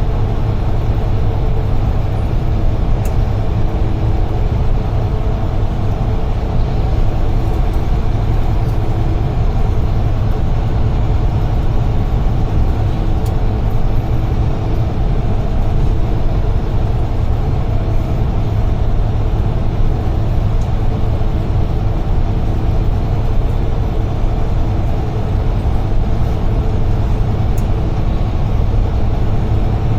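UD Trucks Quon heavy truck heard from inside the cab, its diesel engine and road noise running steadily at cruising speed with a deep rumble and a faint engine hum.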